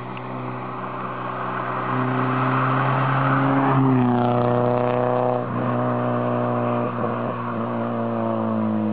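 Škoda Felicia 1.6's four-cylinder petrol engine running through its exhaust with a steady drone. It swells about two seconds in and falls off briefly twice in the second half, as the throttle changes.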